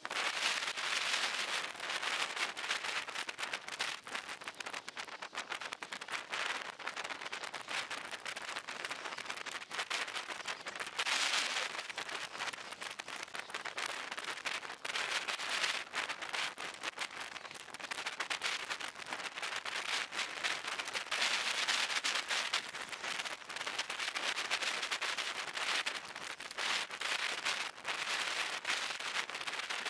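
Heavy rain, a dense crackle of drops hitting a surface, growing louder and softer in waves.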